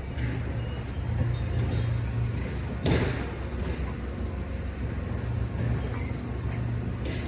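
Truck engine running with a steady low drone, and a single sharp clunk about three seconds in.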